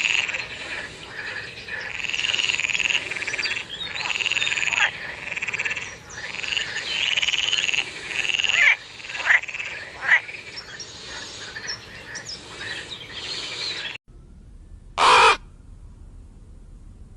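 A chorus of overlapping animal calls, repeated pulsing croaks that stop abruptly about fourteen seconds in. About a second later comes one short, loud call of another kind.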